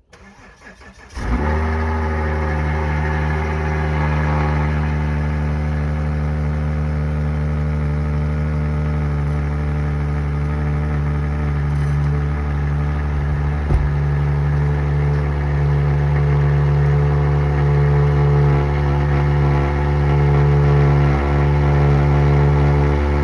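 Volvo S80 3.2's straight-six engine on a cold start at −23 °C: a brief crank, then it catches about a second in and runs at a steady fast cold idle through an exhaust with its resonator removed. One short knock about halfway through.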